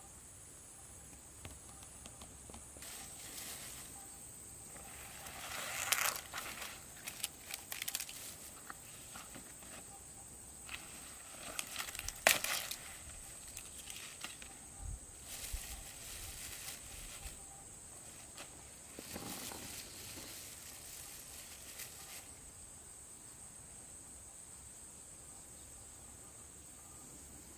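Irregular rustling and crackling, like dry material being crushed or handled. The sharpest cracks come about six and twelve seconds in, and the rustling stops a little past twenty seconds. Underneath runs a steady high insect chirr.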